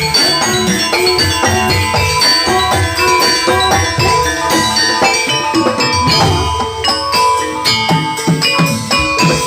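Javanese gamelan music for a jathilan horse dance, played loud through a sound system: bronze metallophones ring out in quick, steady strokes over drums.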